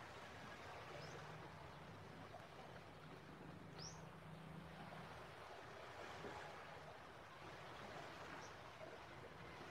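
Near silence: faint outdoor background hiss with three short, high bird chirps, the clearest about four seconds in.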